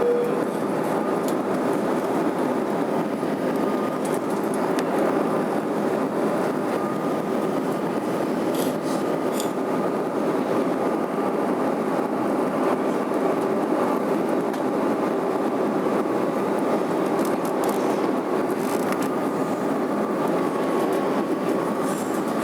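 Steady airliner cabin noise in flight: an even, unbroken rumble and rush of engines and airflow, with a faint steady hum.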